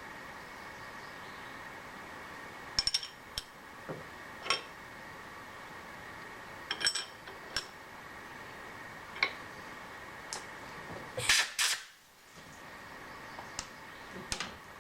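Scattered sharp metal clinks and taps of tools being handled on a milling machine setup, over a steady machine hum. About eleven seconds in there are two short, louder noisy bursts.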